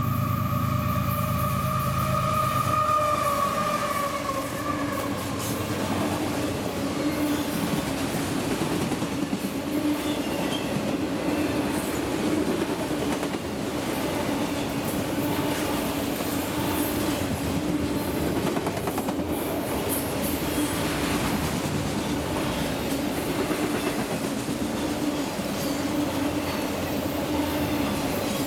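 Freight train led by a CSX ES44AH diesel locomotive passing close by: for the first few seconds the locomotives' heavy engine rumble and a tone dropping in pitch as they go by, then a long string of autorack cars rolling past with steady wheel clatter and a steady drone.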